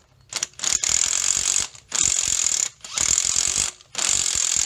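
An old bolt with slots cut in its threads being driven in and out of a rusted threaded hole in an engine block to chase and clean the threads. It comes in four bursts of just under a second each, with short pauses between them.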